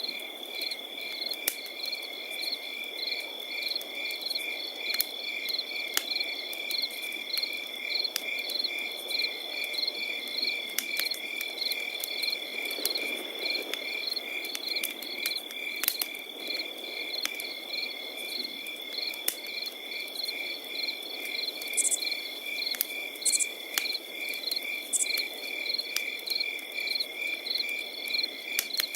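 Crickets chirping in a steady, regular pulse, several layered at different pitches with one holding a continuous trill, over a campfire crackling with scattered sharp pops. Three short high chirps sound late on.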